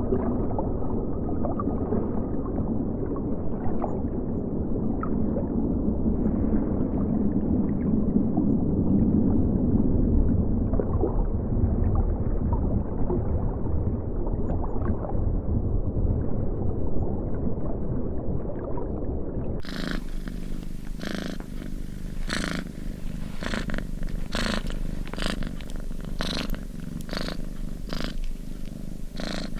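An animal's low, steady purring rumble. About twenty seconds in it changes to regular breathy strokes, roughly one or two a second.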